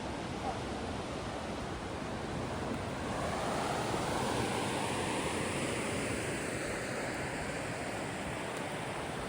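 River rapids rushing steadily, swelling a little louder for a few seconds in the middle.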